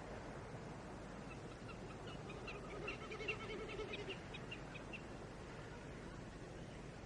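A bird calling outdoors: a rapid run of short, high notes from about a second in until about five seconds in, with a lower wavering sound beneath it in the middle.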